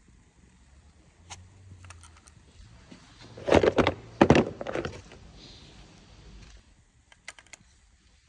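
Small metal parts and hand tools being handled during engine work: a few light clicks, then a louder clatter of knocks lasting about a second and a half from three and a half seconds in, and a short run of light clicks near the end.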